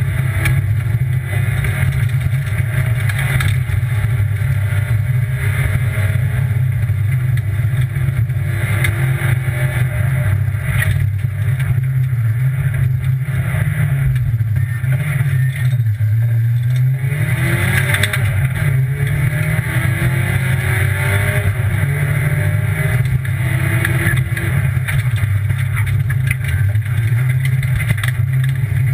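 Rally car's engine running hard, heard from inside the cabin, with road and tyre noise. The engine note drops about halfway through and then climbs again as the car accelerates away.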